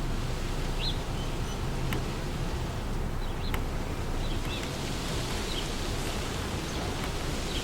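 Wind blowing through trees, a steady rushing that swells with a gust over the last few seconds. A few short bird chirps and some faint sharp clicks sound over it.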